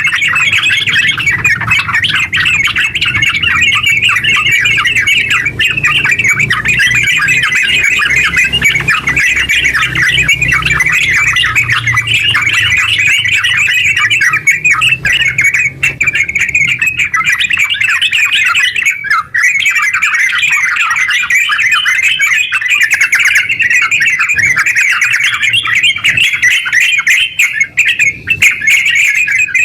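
Yellow-vented bulbuls (terucukan) singing in a loud, rapid, unbroken chatter, the long 'ngeropel' song that is played as a lure to set other bulbuls calling.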